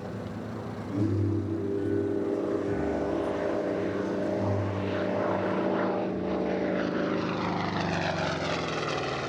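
Republic P-47 Thunderbolt's Pratt & Whitney R-2800 radial piston engine droning as the fighter makes a low flyby pass. The engine swells about a second in. In the second half its pitch sags slightly as it goes by, with a sweeping, phasing hiss over the top.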